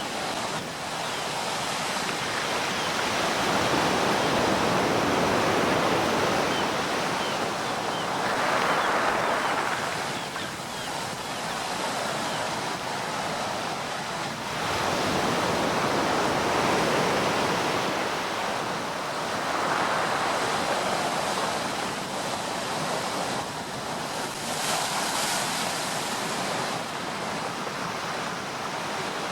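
Sea waves breaking and washing ashore, the surf swelling and easing every few seconds.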